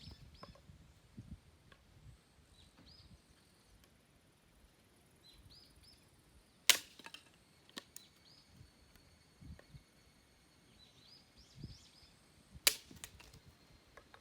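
Firewood being split: two sharp cracks of a blade striking wood, about six seconds apart.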